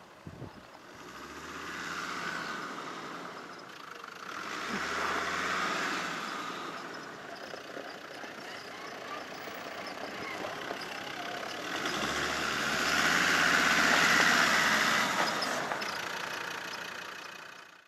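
Land Rover Discovery 4x4 driving slowly on a dirt track, its engine note swelling and easing off three times, loudest about three-quarters of the way through.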